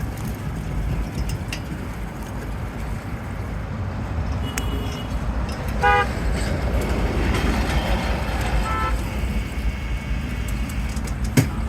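Road traffic rumbling steadily, with a vehicle horn tooting briefly about halfway through and again a few seconds later.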